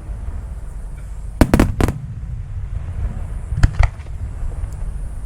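Aerial fireworks shells bursting: a quick cluster of sharp bangs about a second and a half in, and another pair near the end, over a steady low rumble.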